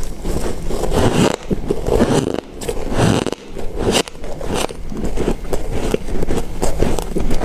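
Ice being bitten and chewed: dense, irregular crunching and crackling, broken by a few short pauses.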